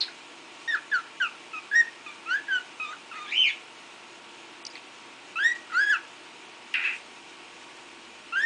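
Cockatiel whistling: a quick run of short rising and falling whistled notes, a pause of about two seconds, then a few more whistles with one harsher, scratchy note among them.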